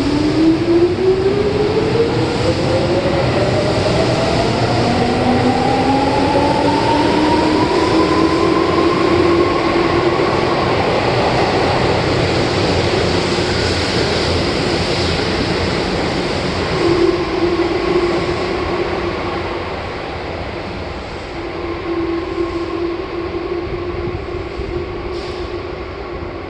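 Subway train pulling out of an underground station: the traction motors' electric whine rises steadily in pitch for about ten seconds as it accelerates, over the rumble of the wheels on the rails. The sound then levels off, and it grows quieter after about twenty seconds as the train moves away.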